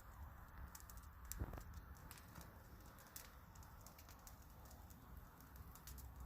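Wood fire crackling faintly, with scattered sharp pops and clicks from the burning wood and a slightly heavier knock about a second and a half in.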